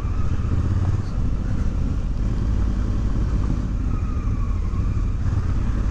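Motorcycle engine running at a steady pace while riding, its pitch drifting gently up and down.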